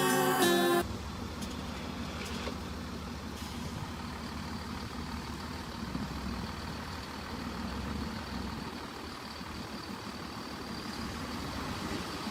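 A heavy vehicle's engine running with a steady low rumble.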